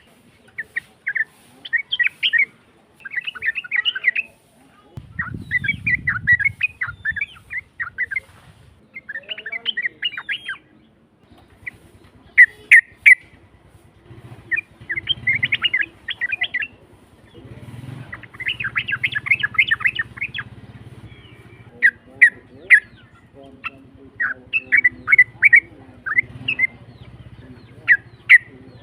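Yellow-vented bulbul (trucuk) singing: harsh, bubbling chattering phrases repeated in quick bursts every second or two. It is a lure recording meant to make other trucuk answer. A faint low rumble runs underneath for much of the time.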